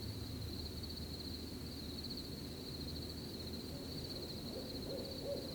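Crickets trilling steadily over a low rushing background, with an owl starting a quick series of short hoots near the end.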